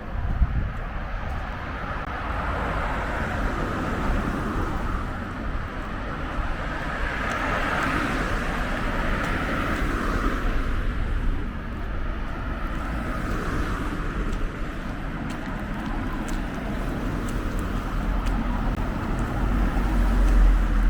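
Road traffic passing on a street: a steady wash of vehicle noise that swells as a vehicle goes by about a third of the way in, with a deep rumble building near the end.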